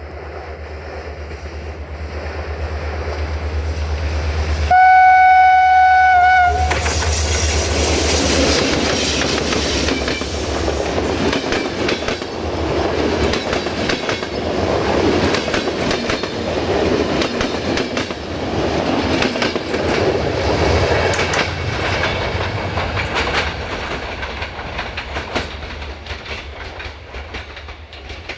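A GM-engined Electroputere 060-DA diesel-electric locomotive (class 65) approaches with its engine running and sounds a single-tone horn for about two seconds. The passenger coaches then pass close by at speed, their wheels clicking over the rail joints, and the sound fades as the train moves away.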